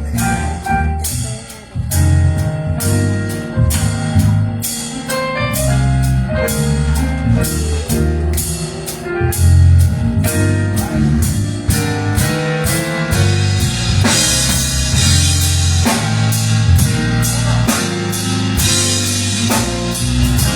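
Live gospel band playing an instrumental groove: a drum kit keeps a steady beat of snare and bass drum over low bass notes and held chords.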